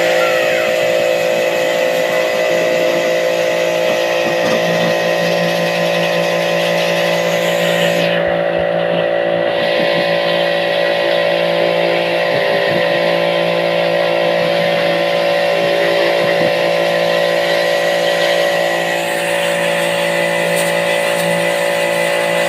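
A motor-driven machine running steadily at one speed, a constant drone with a hiss on top. The hiss drops away for a second or so about eight seconds in.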